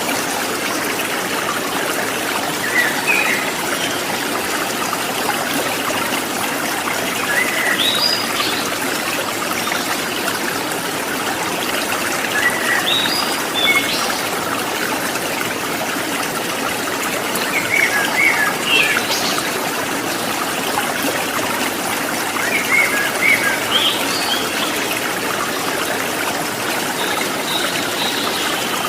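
Water trickling and splashing steadily, like a small stream, with short clusters of bird chirps every few seconds.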